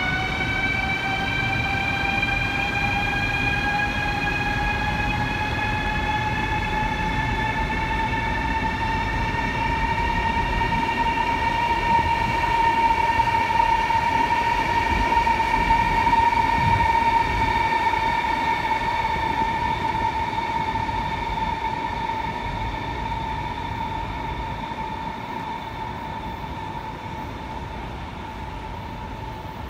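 CRH high-speed electric train moving off along the platform. The traction motors' whine rises in pitch over the first ten seconds or so as it gathers speed, then holds steady over the rumble of the wheels. The sound fades slowly as the train draws away.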